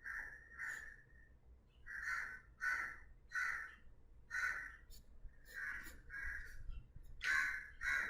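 A crow cawing over and over, about ten short calls, several of them in pairs.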